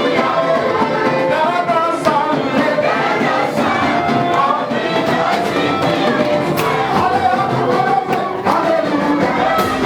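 Live gospel praise music: a band playing with singing voices and a choir, and a steady beat of sharp drum or cymbal hits.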